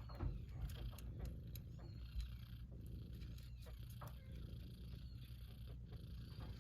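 Young Persian kittens purring, with a few faint mews and small rustling clicks.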